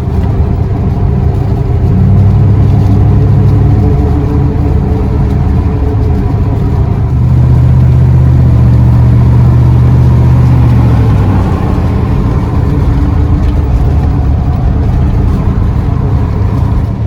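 Chevrolet K3500's 454 big-block V8 running as the truck drives, pulling harder about two seconds in and again from about seven seconds, then easing off near eleven seconds.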